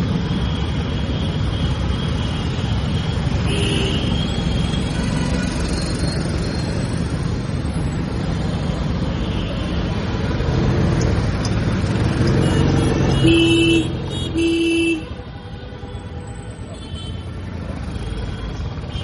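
Royal Enfield Classic 350's single-cylinder engine and exhaust running steadily on the move in city traffic. A vehicle horn honks twice, briefly, near the end, and the engine noise then falls away as the bike eases off.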